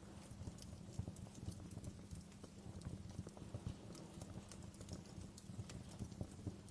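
Wood fire burning in a fireplace: a steady low rumble of flames with frequent irregular crackles and small pops of burning wood.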